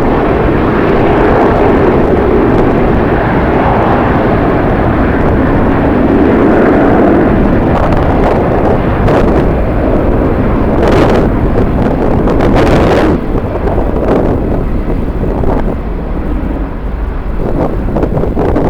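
Jet airliner engine noise mixed with strong wind buffeting the microphone: a loud, steady rushing with slow swells and a few sharp gusts, easing slightly near the end.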